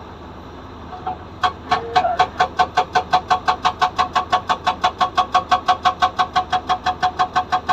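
SAGA 288H hydraulic breaker on a Komatsu PC200 excavator hammering, a fast even train of about seven blows a second, each with a metallic ring, starting about a second and a half in over the steady running of the excavator's engine.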